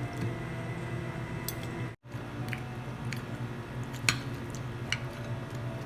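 Close-up eating sounds: wet chewing of grilled chicken and a few sharp clicks of cutlery on a plate over a steady low hum, with a brief dropout about two seconds in.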